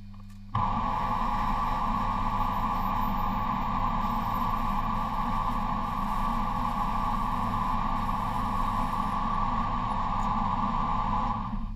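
A workshop machine runs with a steady rushing noise. It starts abruptly about half a second in and cuts off suddenly just before the end.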